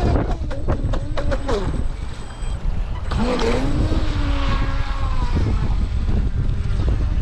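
Strong wind buffeting the microphone with a steady low rumble, crackling at first. About three seconds in, a pitched whine rises and falls, consistent with the RC boat's electric motor running out on the water.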